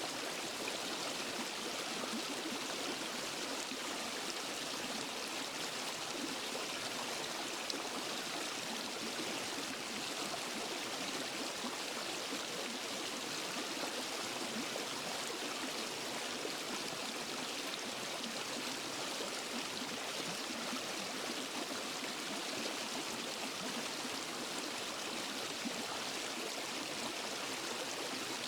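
Waterfall and forest stream: water rushing steadily over rocks, an even hiss without change.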